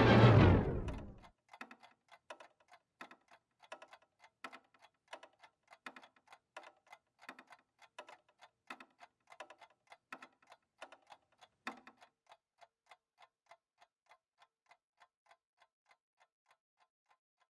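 Music stops about a second in. It leaves the footsteps of two people walking: a steady, faint patter of about three steps a second that gradually fades away.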